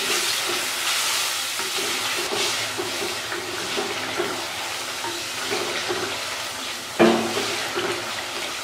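Chicken frying with ginger-garlic paste in a clay pot, sizzling steadily, while a wooden spoon stirs and scrapes it in repeated strokes of about two a second. About seven seconds in there is one sharp knock.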